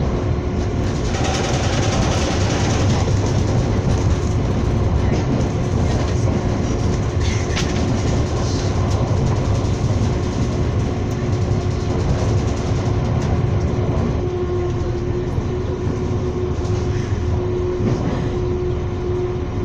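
Passenger train running at speed, heard from inside the carriage: a steady rumble of wheels on the rails with a few clicks and a steady hum that grows stronger in the last few seconds.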